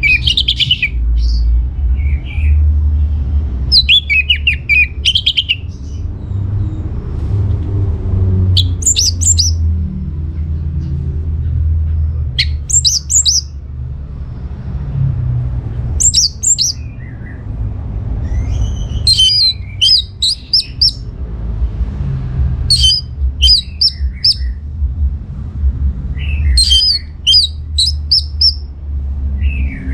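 Orange-headed thrush (anis merah) singing: short phrases of quick, high whistled notes repeated every few seconds, over a steady low rumble.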